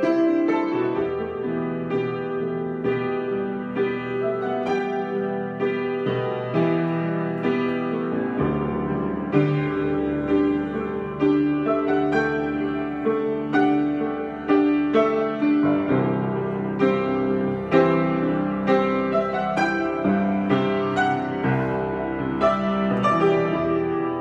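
Solo piano playing an improvised piece: a melody of struck notes over sustained chords, with deeper bass notes coming in about eight seconds in.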